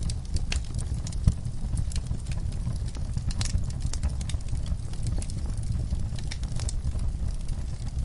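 Burning logs in a wood fire crackling: frequent irregular sharp pops and snaps over a steady low rumble of flame.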